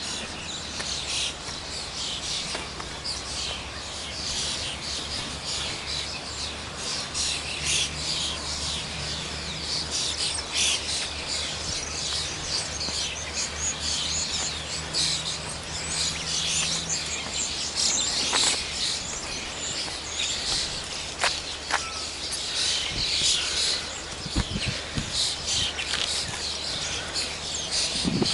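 Many songbirds chirping and singing at once, a dense chorus of short high calls and trills, over a steady hiss and a low hum.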